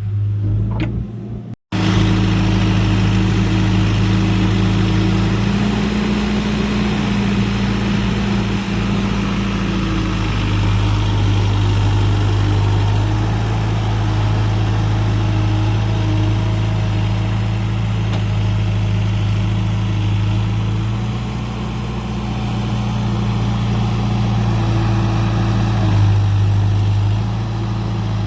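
Large diesel farm engine running steadily, its speed stepping up and back down a few times. There is a brief break in the sound about two seconds in.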